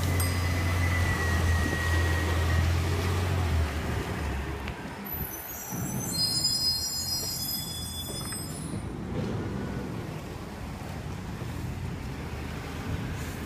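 Garbage truck's diesel engine running with a steady low hum that drops away about four seconds in. A high-pitched squeal follows for about two seconds, then the truck's low rumble carries on.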